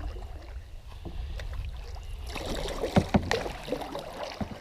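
Kayak paddle strokes splashing in the water, with two sharp knocks about three seconds in and another near the end.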